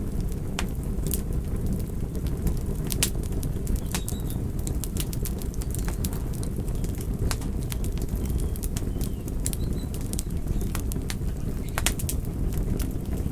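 Campfire burning: a steady low rush of flames with frequent sharp, irregular crackles and pops from the burning wood.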